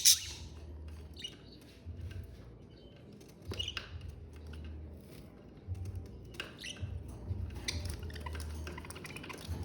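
Budgerigars chirping and chattering in short, scattered bursts, with light clicks mixed in.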